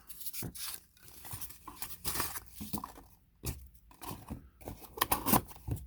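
Packing peanuts rustling and crunching as handfuls are pushed back into a cardboard box, in an irregular run of scratchy crackles, loudest about three and a half seconds in and again near the end.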